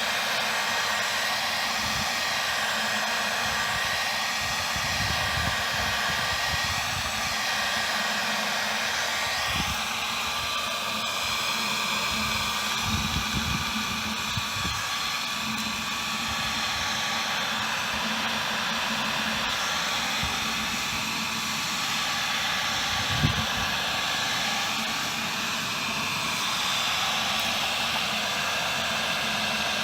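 Electric heat gun blowing steadily, heating a glued PVC pipe joint to soften the cement so the fitting can be cut free. A brief knock about three-quarters of the way through.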